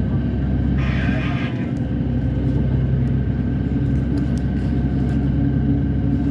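Steady low drone of a vehicle in motion, with constant hum tones, and a brief hiss about a second in.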